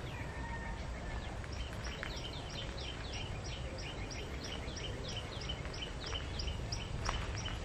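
A bird calling over and over: short high chirps, each falling in pitch, about three a second, with a brief pause early in the run, over a steady low outdoor hum.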